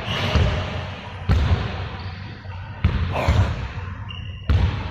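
Basketball bouncing on a hard court in a reverberant gym, four heavy bounces about a second and a half apart, with a brief high squeak shortly before the last one.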